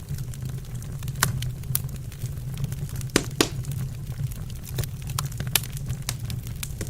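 Wood fire burning in a fireplace: a steady low rumble of the flames with irregular sharp crackles and pops, two of the loudest snaps coming close together about three seconds in.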